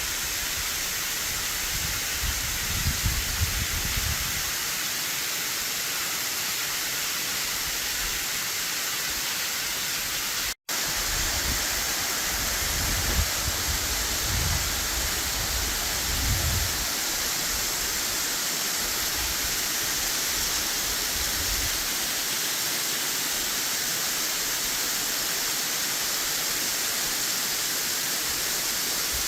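Waterfall cascading off a cliff at high spring-runoff flow: a steady rushing hiss of falling water, with occasional low rumbles and a split-second break about ten seconds in.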